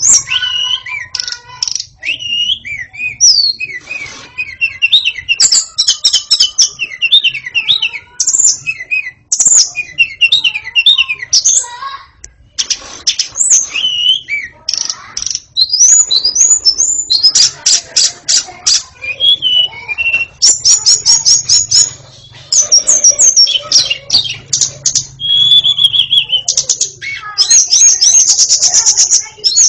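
White-rumped shama singing continuously: a varied run of loud whistled phrases, gliding notes and rapid trills of fast repeated notes, broken by short pauses.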